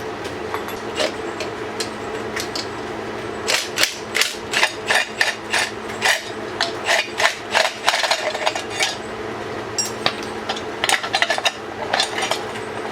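Hand tools tapping and knocking on the metal side cover of a pitbike engine as it is taken off, in irregular runs of sharp clicks and knocks.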